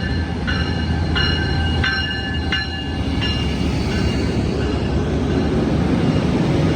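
Amtrak San Joaquin train led by an SC44 Charger diesel locomotive, rumbling low and steady. Over it a bell strikes about every two-thirds of a second for the first three seconds or so, then fades out.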